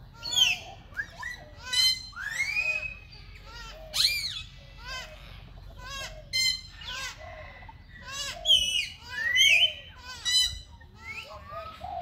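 Several birds calling over one another: a busy run of short chirps and squawks, some rising and some falling in pitch, a few every second.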